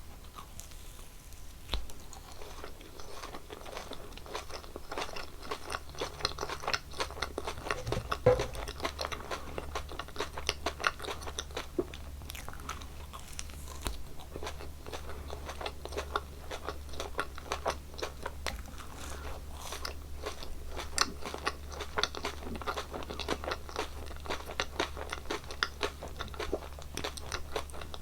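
Gummy jelly candies being bitten and chewed close to the microphone, a dense run of small wet clicks that starts about two seconds in and goes on without a break.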